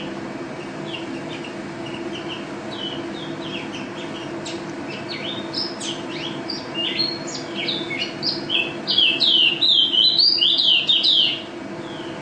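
White-eye (pleci) songbird singing: scattered short chirps that build about eight seconds in into a fast, loud run of notes, which stops abruptly. A steady low hum runs underneath.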